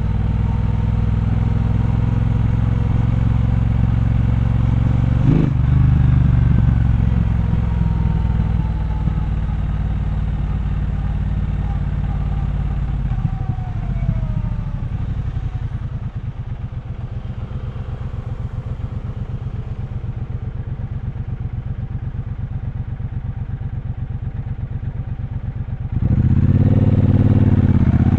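Triumph Bonneville Bobber's parallel-twin engine running at a steady cruise, with a sharp knock about five seconds in. About halfway it drops to a low, pulsing idle, then revs up hard and pulls away near the end.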